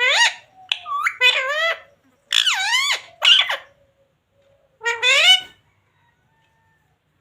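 Pet green parrot giving five short, high-pitched calls whose pitch slides up and down, loudest in the first three seconds, the last one about five seconds in.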